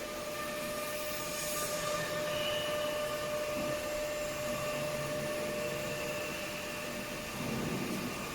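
CNC stone-milling router running steadily: a continuous machine whine with several held tones over a hiss.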